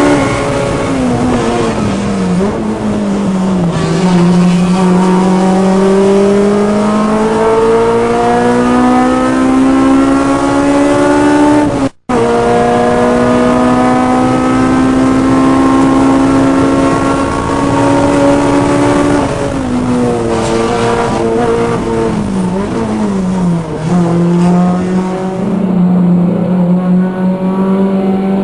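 Car engine being driven hard on a race track. Its pitch falls in steps as the car slows, climbs slowly and steadily through a long pull, falls again about 20 seconds in, then climbs once more. The sound cuts out for a split second about 12 seconds in.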